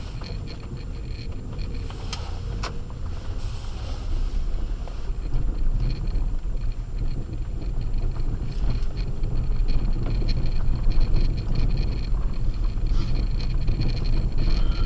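Acura MDX on Sumitomo Ice Edge winter tyres driving on a snow-covered road, heard from inside the cabin: a steady low rumble of tyres, road and engine, with a couple of brief knocks about two seconds in.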